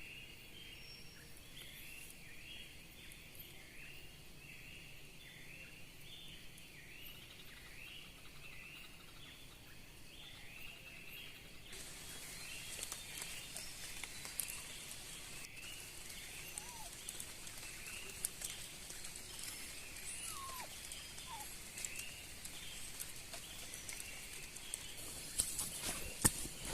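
Forest ambience: an animal gives a short repeated chirp about twice a second for the first half. Then the sound changes abruptly to a hiss with many scattered clicks and taps, and a few louder knocks come near the end.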